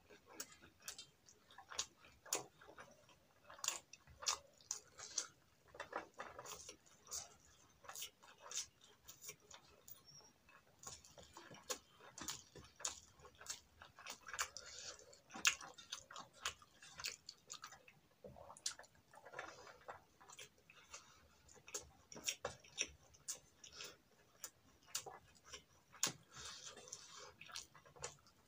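Close-up chewing of hand-fed mouthfuls of rice, with wet lip-smacking and mouth clicks coming irregularly, several a second.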